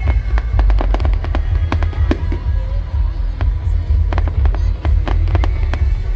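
Fireworks going off: a quick, irregular run of sharp bangs and crackles, several a second, over a steady low rumble.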